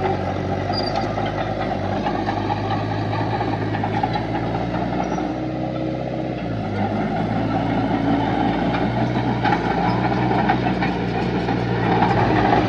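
Diesel engine of heavy earthmoving machinery running steadily, its pitch shifting slightly about halfway through.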